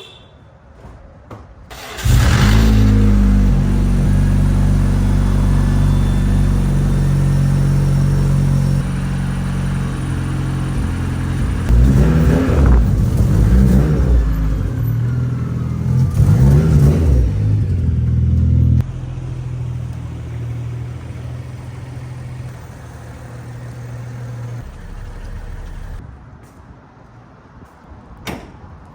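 Stock 2015 BMW 335i's turbocharged 3.0-litre inline-six on its factory exhaust, starting up about two seconds in and running at a raised idle. It is revved twice, settles to a lower idle, and the engine sound stops a few seconds before the end. This is the baseline stock exhaust note, which the owner finds barely audible.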